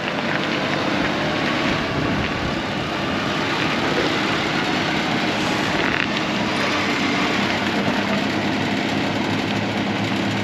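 Vehicle engine running steadily under throttle as the driver gives it gas to pull the stuck vehicle free.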